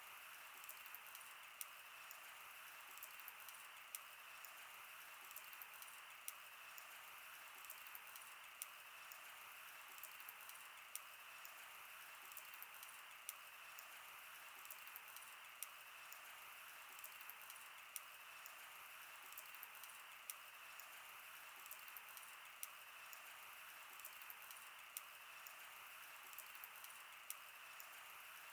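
Wood fire burning, with a steady soft hiss and frequent small crackles and pops scattered irregularly, a few sharper pops standing out.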